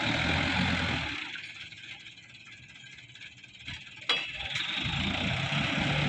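Dump truck's diesel engine running hard, dropping back for a few seconds, then pulling hard again after a sharp click about four seconds in.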